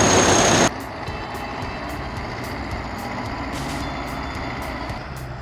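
A loud rushing hiss with a steady high whine cuts off abruptly under a second in, giving way to a heavy machine's engine running steadily at a lower level.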